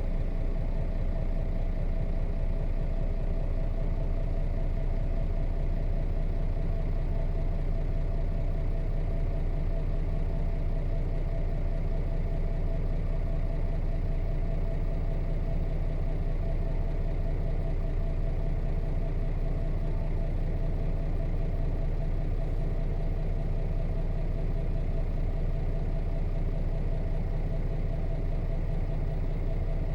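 1998 Nissan Diesel KC-RM211GSN bus's FE6 inline-six diesel engine running steadily, heard from inside the cabin, with a deep, even hum that neither revs up nor down.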